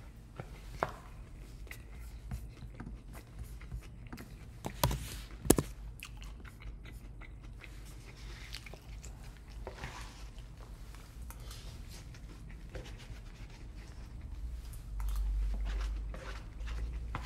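Close-up eating: chewing mouthfuls of a steak and rice burrito bowl, with a plastic spoon clicking and scraping in a takeout bowl. Two sharp clicks about five seconds in are the loudest sounds, and there is a low muffled bump near the end.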